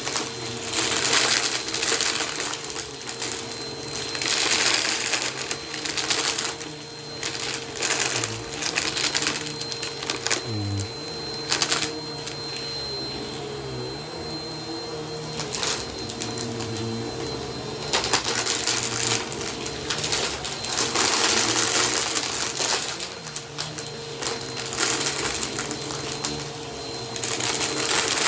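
Bissell vacuum cleaner running on a shag rug: a steady motor hum under repeated louder surges of rushing, crackling suction as it is pushed back and forth and picks up crunchy debris. The middle of the stretch is steadier and quieter.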